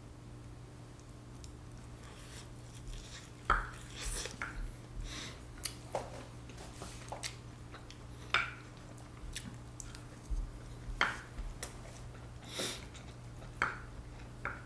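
Eating at the table: spoons and chopsticks clicking and scraping on plates and bowls, with chewing, over a steady low hum.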